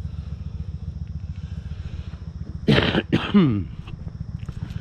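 Motorcycle engine idling with a steady, fast low pulse while warming up. About three seconds in, a short-of-breath man coughs and clears his throat over it.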